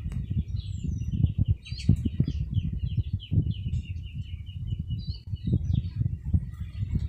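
A bird chirping in a quick, run-on series of high notes for about five seconds, over a constant low rumbling noise.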